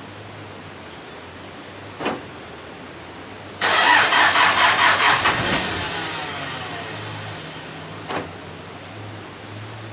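Hyundai D4BH 2.5-litre turbodiesel in a 2002 Starex being cranked on the starter from cold: a click, then about two seconds of loud pulsing cranking, after which the sound eases off over a few seconds. Another click near the end.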